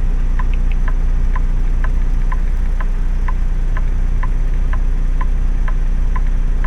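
Semi-truck idling, heard inside the cab as a steady low hum, with the indicator flasher clicking evenly about twice a second.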